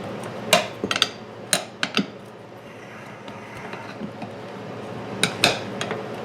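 Tire spoons and a metal rod clinking and knocking against a lawn tractor's metal wheel rim while the tire bead is pried off: a cluster of sharp metallic clanks in the first two seconds, a quieter stretch, then two more clanks a little after five seconds.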